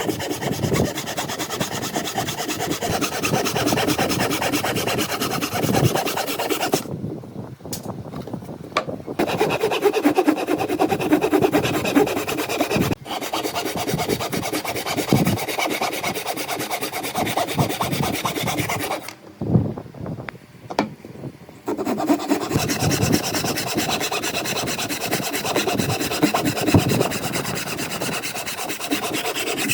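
Wood being worked by hand with a rasping, rubbing scrape, made of many rapid strokes. It stops briefly twice.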